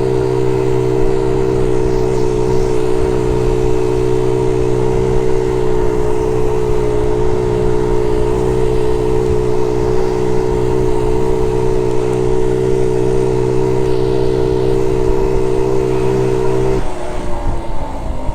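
Honda Z50J monkey bike's small single-cylinder four-stroke engine running at a steady speed under way. About seventeen seconds in the throttle closes and the engine note falls away.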